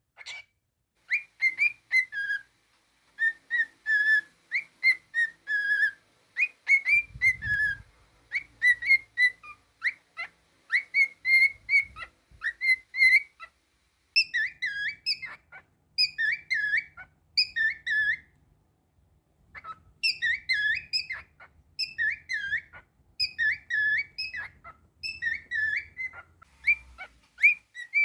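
Cockatiel whistling a tune, a long run of short clear notes in phrases with brief pauses, turning to swooping, looping notes about halfway through.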